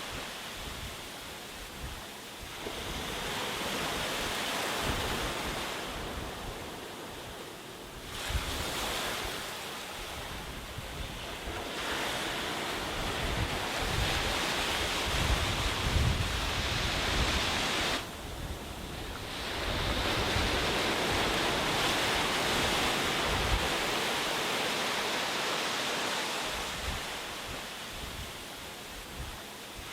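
Sea waves breaking and washing up a beach, the surf swelling and ebbing in several surges, with wind rumbling on the microphone.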